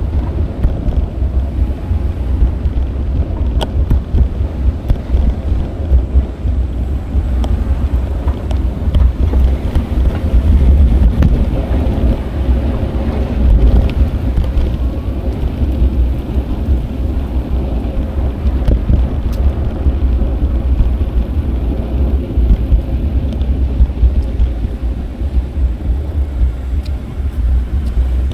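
Wind buffeting an action camera's microphone during a bicycle ride: a loud, steady, fluttering low rumble, with faint road and traffic noise and a few light ticks.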